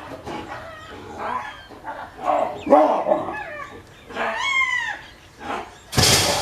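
Baboons fighting, giving a string of short, dog-like barks and screams, some falling in pitch. Near the end there is a loud, sudden crash.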